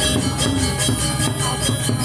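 Balinese gamelan playing: many metallophone tones ringing together over rapid, steady clashing of small cymbals.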